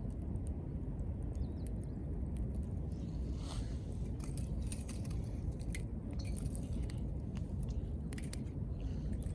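Wood campfire crackling, with irregular sharp pops over a steady low rumble and a short soft hiss about three and a half seconds in.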